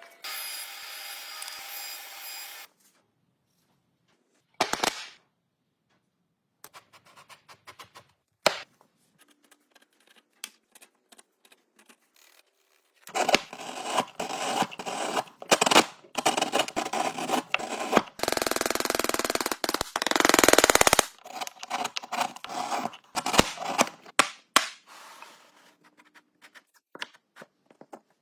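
Workshop woodworking sounds: scattered sharp taps and knocks on wood with silent gaps, then busier clattering, and about eighteen seconds in a power tool runs steadily for about three seconds.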